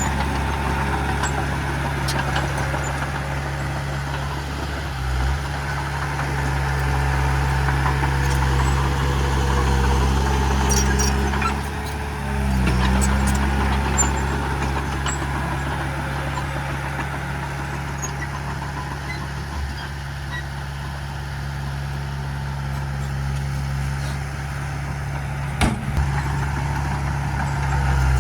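Heavy diesel engine of earthmoving equipment running steadily, its load and loudness rising and falling slightly, with one sharp knock near the end.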